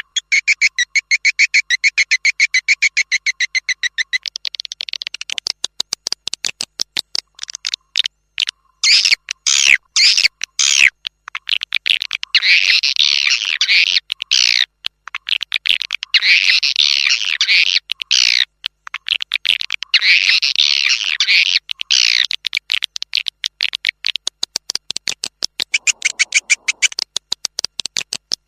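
Swiftlet lure sound: edible-nest swiftlets chirping and twittering rapidly, played back to draw swiftlets into a swiftlet house to nest. A fast, even trill opens it, and the calls then come in repeated bursts about two seconds long.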